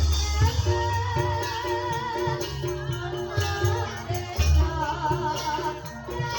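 Live kuda lumping accompaniment: a Javanese gamelan-style ensemble with drum hits and repeated pitched percussion notes under a wavering melody line.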